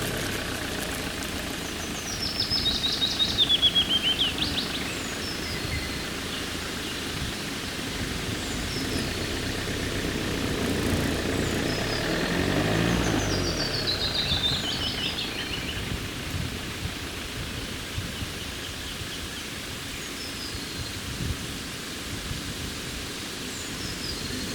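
A songbird sings two descending, trilled song phrases about ten seconds apart, with a few short high chirps between them, over a steady rushing background noise.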